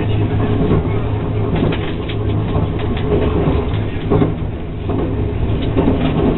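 Cabin noise inside a CRH1 high-speed EMU at speed: a steady low hum and rumble of the running train. There is a short rush of noise about four seconds in as it passes under an overpass.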